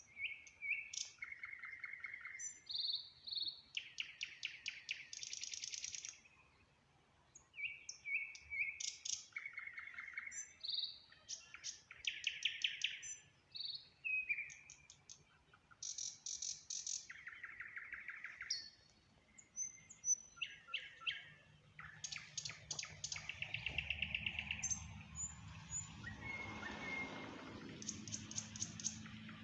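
Nightingale singing: a run of varied phrases of rapid repeated notes and trills alternating with short whistled notes, each phrase separated by a brief pause. In the last few seconds a low, steady noise rises underneath the song.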